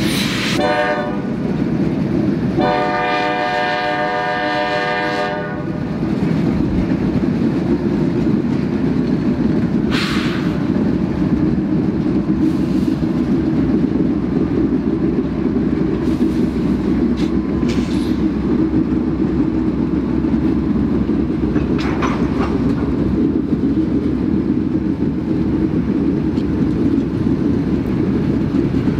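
Locomotive horn on a freight train: a blast ending just after the start, then a longer one of about three seconds, followed by the steady rumble of a mixed freight train's cars rolling slowly through a curve, with a few short high squeaks.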